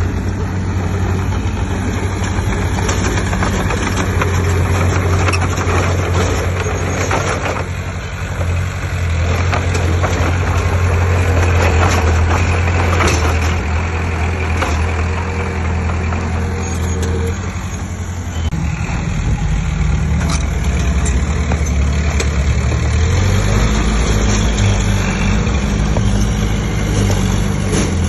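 Heavy diesel engine of earthmoving machinery running steadily under work, its low note shifting a little past halfway and again later, with scattered clatter and scraping over it.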